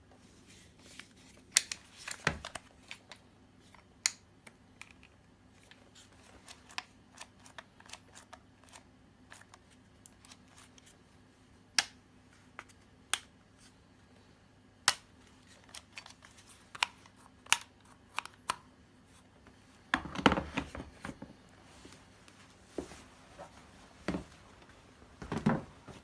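Scattered sharp clicks and light knocks of small hard objects being handled, with a short burst of rattling clatter about twenty seconds in and another near the end.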